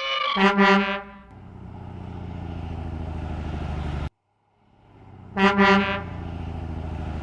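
Truck horn giving a double honk, then a truck engine running and building up until it cuts off suddenly about four seconds in. The engine starts up again and the double honk repeats near the end.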